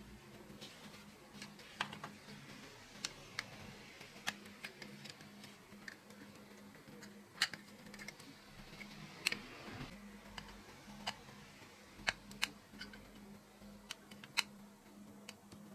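Scattered, irregular sharp clicks and taps of small hard parts being handled during a toy truck restoration, over a faint steady hum.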